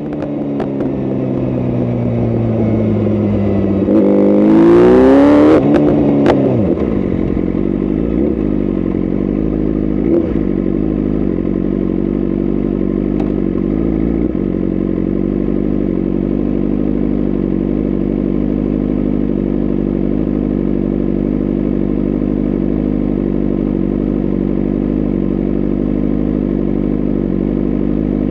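BMW S1000RR's inline-four engine idling, its idle slowly falling for the first few seconds. About four seconds in, the throttle is blipped once in a sharp rev that falls straight back, and then the engine idles steadily at a standstill.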